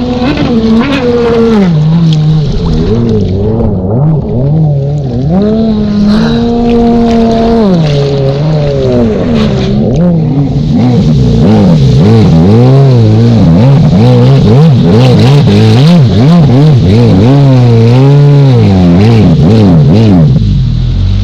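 Stand-up jet ski engine running hard, its pitch climbing and dropping over and over as the throttle is worked on and off, with a short steady stretch about six seconds in. Wind buffets the microphone throughout.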